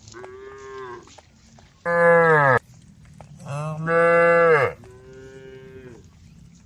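Cows mooing: four moos in a row, a quieter one at the start, two loud, longer ones in the middle and a quieter one near the end.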